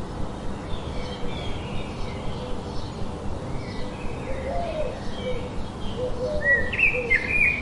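Birds calling: repeated short, high chirps throughout, with lower, fuller calls joining about halfway. The chirps grow louder near the end, over steady background noise.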